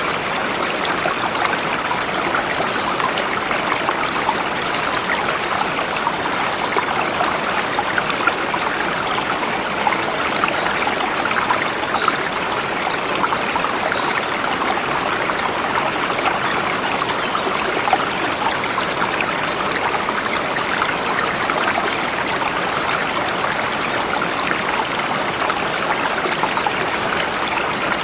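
Forest river flowing swiftly over rocks, a steady rushing of water with fine splashing and babbling throughout.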